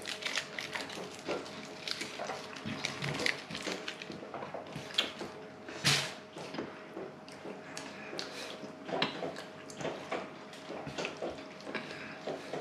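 A person eating lahmacun, chewing between bites, with irregular small clicks and soft handling noises.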